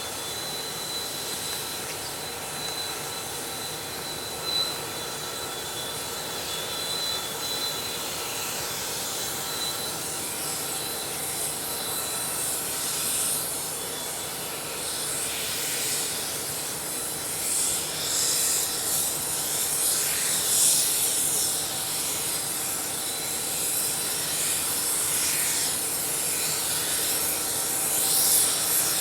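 Freight train rolling slowly past, with a steady hiss and clatter from the moving cars. A thin high wheel squeal runs through roughly the first twelve seconds, and the hiss grows louder in the second half.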